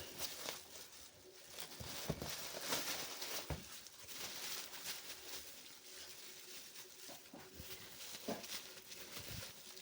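Rustling of packaging being handled, with scattered light taps and clicks.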